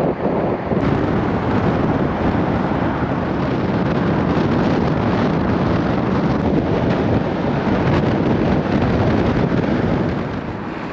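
Steady, loud wind rush buffeting the microphone inside a moving electric car.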